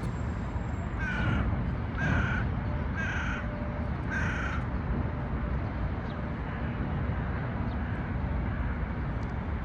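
A crow cawing four times, about a second apart, each caw short and harsh, over a steady low background rumble.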